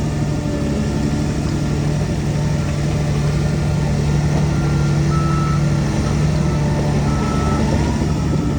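DH17C3PRO bulldozer's diesel engine running steadily under load while it works, with a few faint short beeps in the second half.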